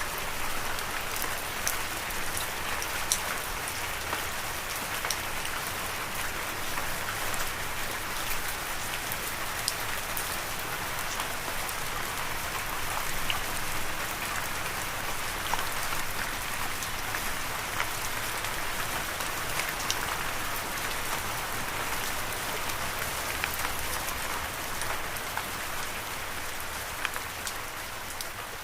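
Steady rain falling, an even hiss dotted with many sharp individual drop ticks.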